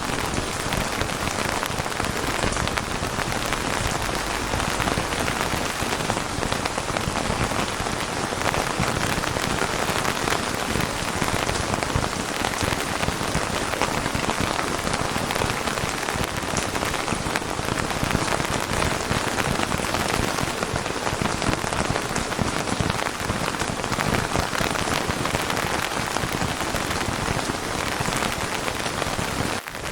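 Steady, even rain falling, a dense patter of raindrops on a surface, with a momentary drop in level just before the end.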